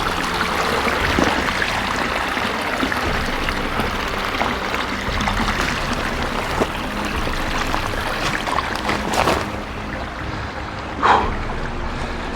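Mountain creek water flowing steadily, with a couple of short sharp knocks near the end, the second the loudest thing in the stretch.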